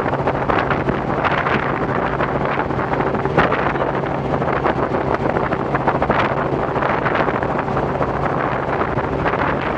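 Robinson R44 helicopter in flight: the steady drone of its engine and rotors, with wind buffeting the microphone. A short sharp click about three and a half seconds in.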